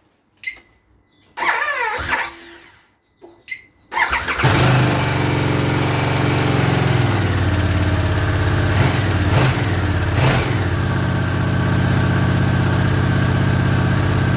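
Harley-Davidson Sportster S's Revolution Max 1250T V-twin on its stock exhaust: after a short whirr it starts about four seconds in and idles steadily, with three brief sharp sounds near the middle.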